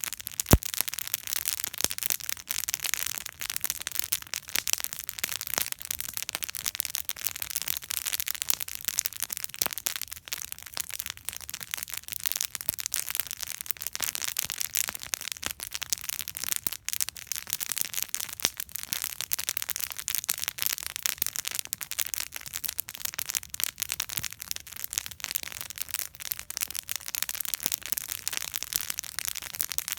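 Campfire burning, with dense continuous crackling and popping, and one sharper, louder pop about half a second in.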